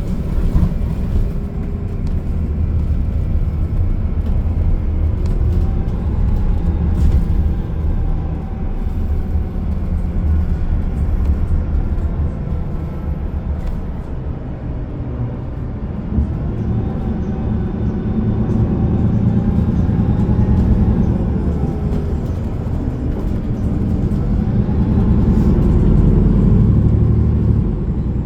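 Inside a moving bus: steady low engine and road rumble, with a faint whine that rises and falls in pitch as the bus speeds up and slows. The rumble eases about halfway through and swells again later.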